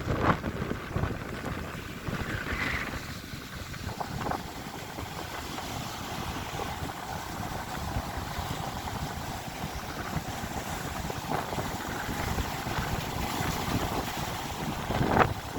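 Wind buffeting the microphone, a rough, uneven rumble with no voices.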